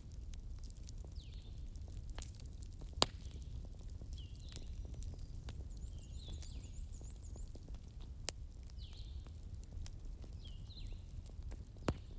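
Wood campfire crackling: a steady low rumble of the burning fire with frequent small crackles and three sharp pops. A bird chirps over it, a short high call repeated every second or so, with a brief trill near the middle.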